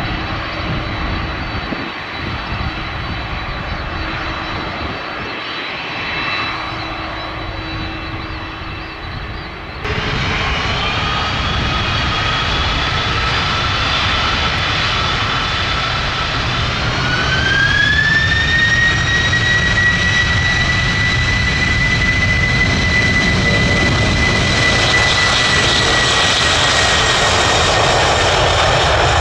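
Jet airliner engines running. After a sudden change about a third of the way in, a whine rises in two steps and then holds high and steady over the engine noise: the engines spooling up to takeoff power.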